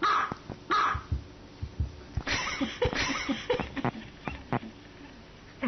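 Small dog barking: two short, sharp barks at the start, then a longer noisy stretch of sound about two seconds in.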